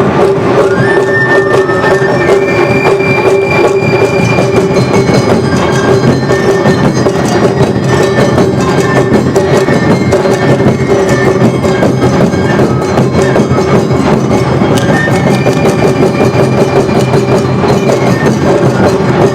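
Awa odori festival band playing: drums and a clanging kane bell keep up a dense, driving beat under high held notes, as from a bamboo flute.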